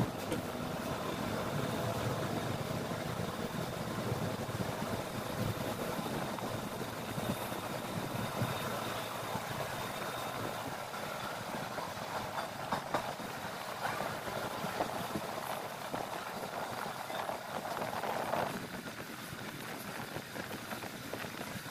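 Passenger train rolling slowly: a steady rumble of the coach's wheels and running gear on the rails, with a few sharp clicks. It quietens a little near the end.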